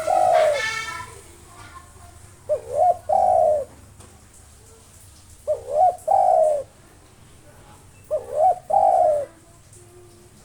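Spotted dove (tekukur) cooing in repeated phrases. Each phrase is two short notes followed by a longer, falling coo, coming about every three seconds.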